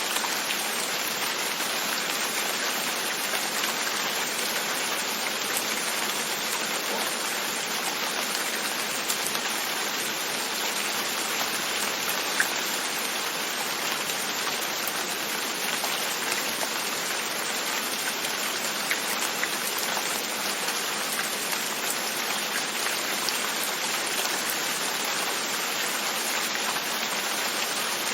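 Steady rain pattering on a window, an even hiss of drops with a scattered, slightly louder drop tick now and then.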